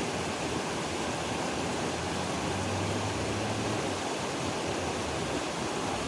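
Steady rushing of a small stream's running water.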